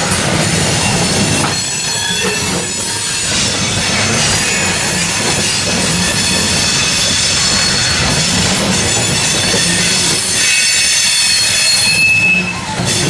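Loaded coal hopper cars of a freight train rolling past, steel wheels rumbling on the rails with a steady high-pitched wheel squeal over it, the squeal growing stronger near the end.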